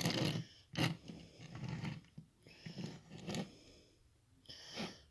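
A few short clicks and rustles, spread out, from a plastic toy train being handled.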